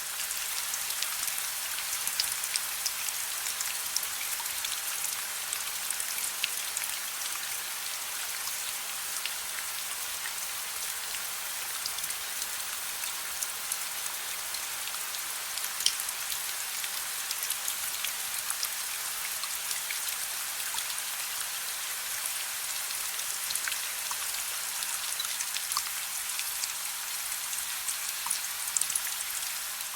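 Steady gentle rain, an even hiss with many small drop impacts ticking sharply through it.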